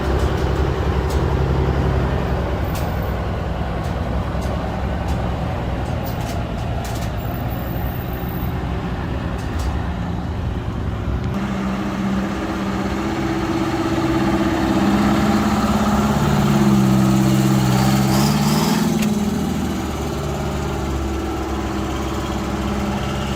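Heavy truck engine running, its pitch climbing for a few seconds past the middle as it revs or pulls away, then dropping back. A short hiss near the top of the climb.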